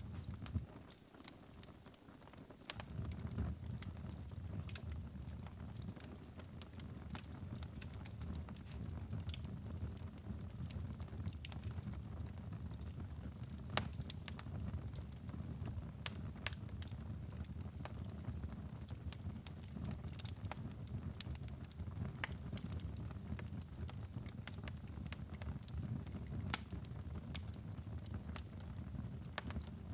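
Fire crackling in a fireplace: frequent sharp pops and snaps over a steady low rumble of the flames. The rumble drops away briefly about a second in, then returns.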